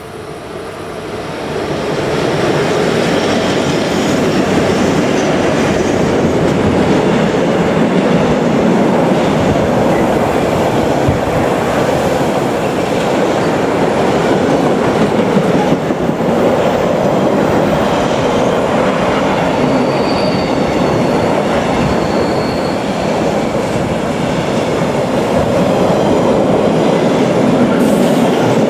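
Electric-hauled freight train of container wagons passing close by. The sound builds over the first two seconds as the train arrives, then holds as a steady rumble of wheels on rail, with brief high wheel squeals about two-thirds of the way through and again at the very end.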